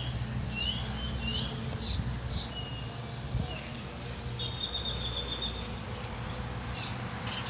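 Small birds chirping: scattered short high chirps, with one buzzy trill about a second long midway, over a steady low rumble.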